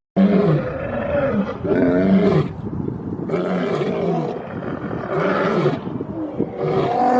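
An animal calling over and over: about five loud pitched calls, each rising and falling, roughly one every second and a half.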